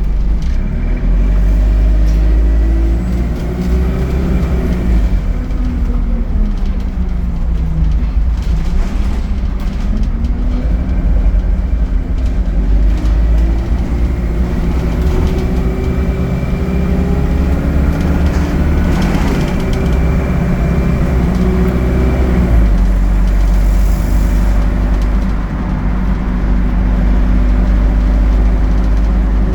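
ADL Enviro 200 bus engine and Allison automatic gearbox heard from on board, the engine note rising and falling as the bus pulls away and changes up through the gears, with a faint steady whine above it. About 22 seconds in the engine settles to a steady note.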